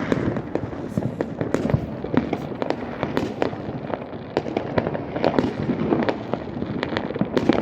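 Fireworks going off without pause: many overlapping sharp bangs and crackles, several a second.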